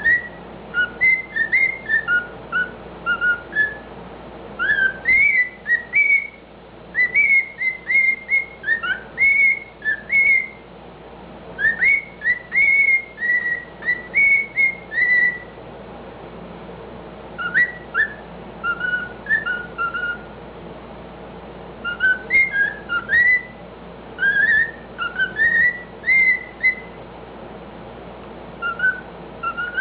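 Pet cockatiel whistling a tune of its own, in phrases of short clear notes that rise and fall in pitch, broken by a few short pauses.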